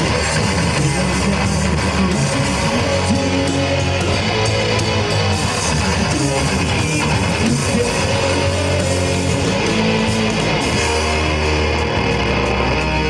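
Rock band playing live: loud electric guitars strumming over bass guitar, an instrumental passage with no singing.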